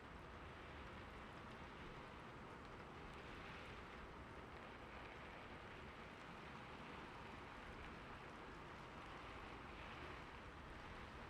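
Soft, steady rain, an even hiss of falling drops that does not change.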